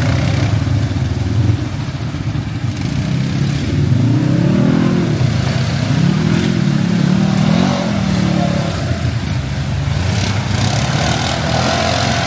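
ATV engine running, its pitch rising and falling three times in the middle as the throttle is opened and eased off.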